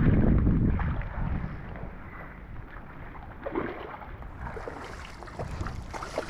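Wind buffeting the microphone, loud and low for about the first second and a half, then easing to a steadier rush with scattered light taps.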